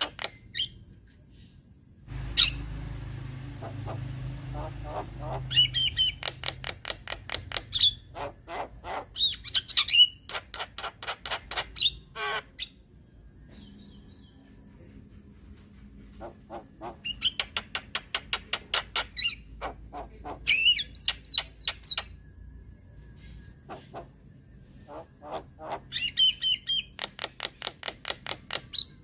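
Javan myna singing: rapid runs of harsh, clicking chatter mixed with short whistled notes, coming in bursts with brief pauses between them.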